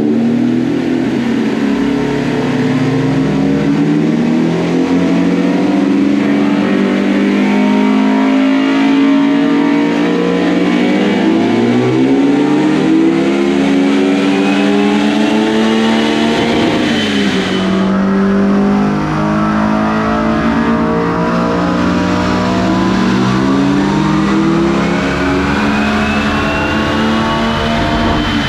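Honda Civic Type R (FK8) 2.0-litre turbocharged four-cylinder at full throttle on a chassis dyno during a power pull. The revs climb steadily, drop at a gear change a little past halfway, then climb again, with a rising whine above the engine as the revs peak.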